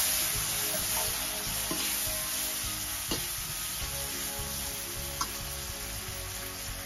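Frozen green peas sizzling in hot oil in a black wok with fried onions and spices, stirred with a metal slotted spoon that clicks against the pan a couple of times. The sizzle is loudest at the start, just after the peas go in, and eases a little.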